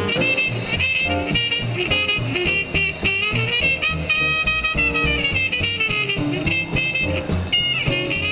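Small-group swing band playing live: trumpet and saxophone carry a melody with bends and slides over piano, upright bass and drums.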